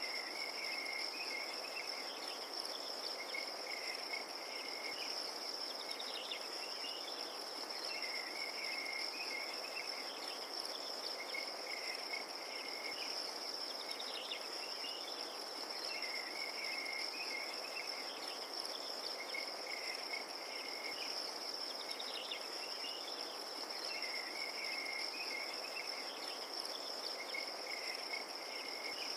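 Crickets trilling steadily at a high pitch, with a lower chirping call coming back every few seconds over a soft, even background hiss.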